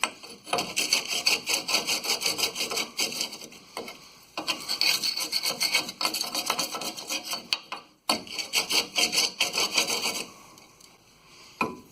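Hand tool scraping rust and debris off a truck's rear axle U-bolt seat with quick back-and-forth strokes, in three runs that stop about ten seconds in.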